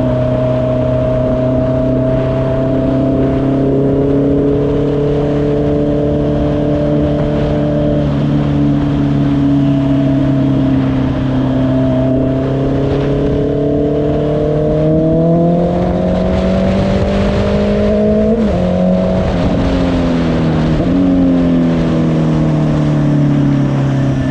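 Honda CBR650R inline-four motorcycle engine running while riding: a steady cruise, then the pitch climbs under acceleration and drops sharply twice near the end as gears change, settling lower.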